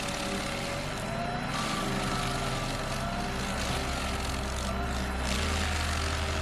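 Heavy machine engine running steadily, with a whine that slowly wavers up and down in pitch.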